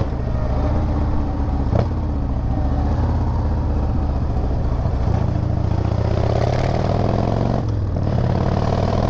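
Harley-Davidson V-twin motorcycle engine running under way, heard from the rider's seat with road and wind noise. There is a sharp click a couple of seconds in, and the engine note dips briefly near the end, as if the throttle eases off.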